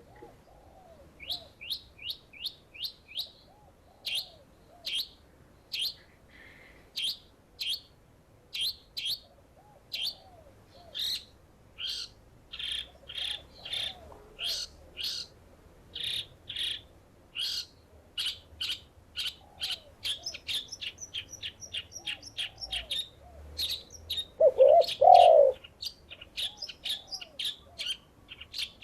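Rapid, sharp high chirps from a small songbird, a few to several a second, over soft repeated dove coos; one louder double coo about 25 seconds in.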